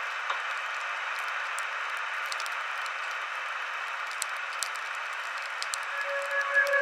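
Campfire crackling: scattered sharp pops over a steady hiss. Near the end, a radio starts sounding a few steady tones.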